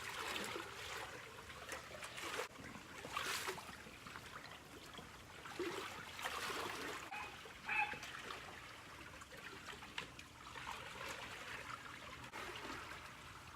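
Swimming-pool water splashing and trickling in irregular swells as the pool is being cleaned.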